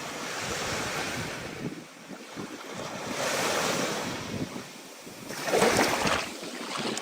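Stormy ocean surf: waves breaking and washing in, with wind, the sound swelling and ebbing and loudest about five and a half seconds in.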